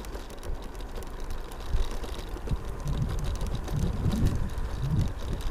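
Electric scooter rolling down a steep road: tyre and road rumble with low, uneven wind buffeting on the microphone, growing stronger after about two and a half seconds.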